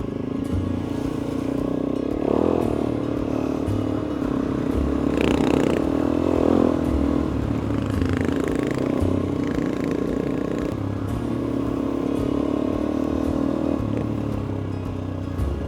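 Single-cylinder dirt bike engine running under way on a dirt road, revs rising and falling with the throttle, briefly climbing around two seconds in and again between five and seven seconds.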